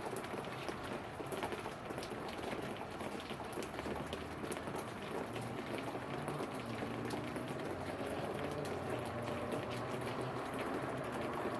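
Steady rain falling, with many fine drop taps. About halfway through a low, wavering pitched sound joins it.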